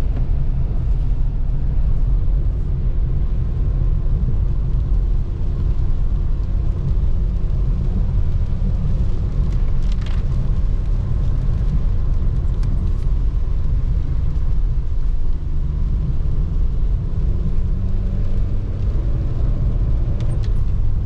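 Steady low rumble of a car driving on the road, tyre and engine noise heard from inside the cabin.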